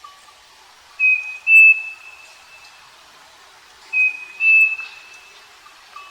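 Striped cuckoo (saci) singing its clear two-note whistle twice, about three seconds apart; in each phrase the second note is slightly higher and louder than the first.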